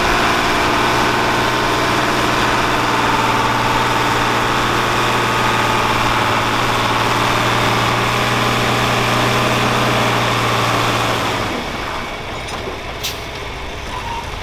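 A turbo diesel pulling tractor's engine runs loud and steady at full throttle under load down the track, then drops off about eleven seconds in as the run ends. A single sharp click follows shortly after.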